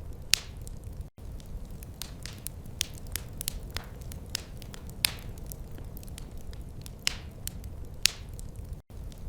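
Wood fire crackling in a fireplace: irregular sharp pops and snaps, a few of them loud, over a steady low rumble. The sound cuts out briefly twice, about a second in and near the end.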